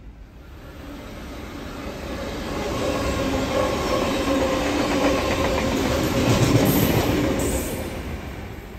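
Intercity V set double-deck electric train passing on the main line: wheel and running noise that builds for several seconds, is loudest a little past the middle, then fades as the train draws away.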